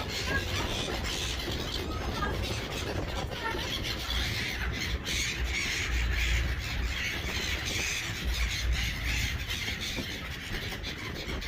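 A flock of seagulls calling and squawking over one another without a break.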